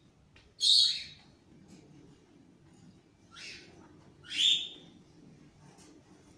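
A bird chirping in short high calls: a loud one about a second in, a softer one after about three seconds, then another loud one.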